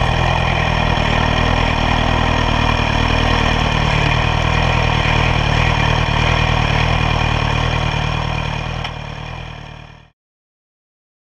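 Suzuki GSX-S 1000's inline-four engine running steadily at cruising speed under way, over wind rush, heard onboard. The sound fades out near the end and drops to silence for the last second.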